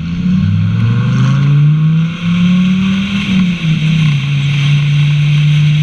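A car engine running loud, its pitch rising over the first couple of seconds as it accelerates, then holding fairly steady.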